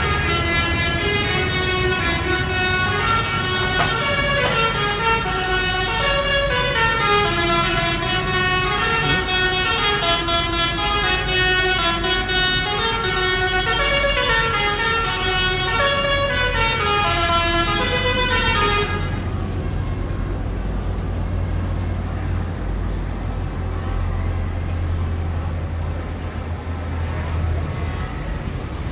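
A tune of stepping, repeating notes played from a parade vehicle, cutting off suddenly about nineteen seconds in, over the steady low drone of a heavy vehicle's diesel engine running.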